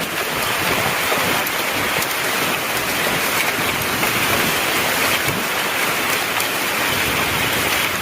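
Heavy rain falling steadily, a dense even hiss with scattered sharp ticks of drops striking a surface.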